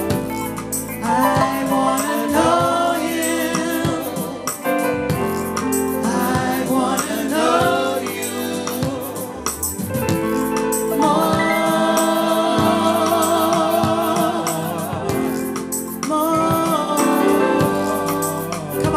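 Live gospel worship music: a choir singing with instrumental accompaniment.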